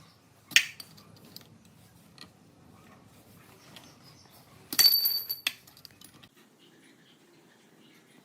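Metal parts clinking: a sharp click about half a second in, then a louder metal-on-metal clink with a brief high ring about five seconds in.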